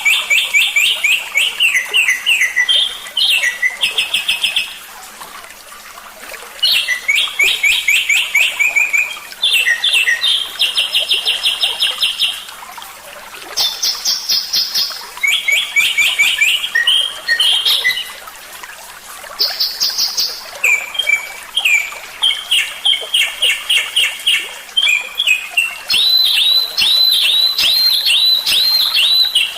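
A songbird singing fast series of repeated chirping notes and trills, phrase after phrase with short pauses between them: a tutor-song recording of the kind played to train caged songbirds.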